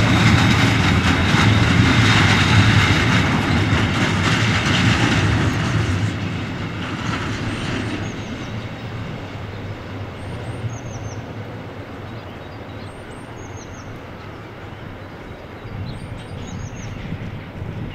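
A timber train of loaded log wagons rolling away over the rails. The wheel and rail noise is loud at first and fades from about six seconds in. In the quieter second half a bird chirps, short high chirps every few seconds.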